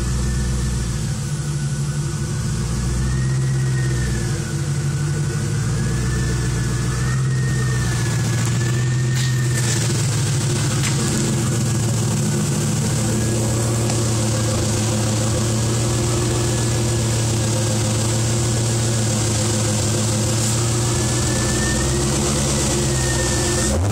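Stock LS1 5.7-litre V8 of a 2000 Chevrolet Camaro Z28 idling steadily.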